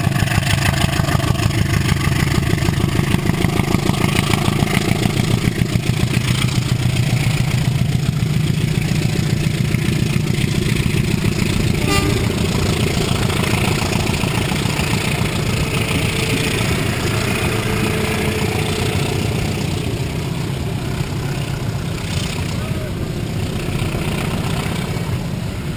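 Economy-class passenger train rolling slowly past on the next track: a steady low rumble from its running gear and engine, with a fast rhythmic pulsing over the first several seconds that then evens out.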